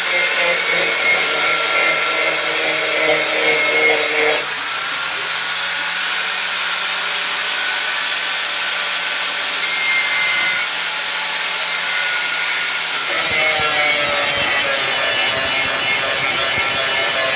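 Electric grinder running with a steel blade pressed to the grinding wheel to sharpen it: a steady motor hum under a harsh rasping hiss of metal being ground. The grinding comes in spells, heaviest in the first four seconds, briefly about ten seconds in, and continuous and louder from about thirteen seconds on.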